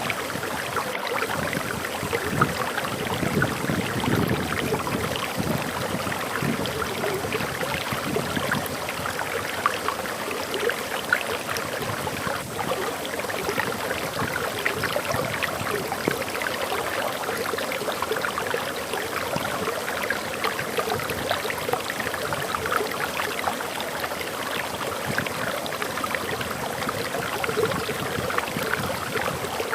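A forest waterfall running steadily: a constant rush of water with dense splashing and trickling.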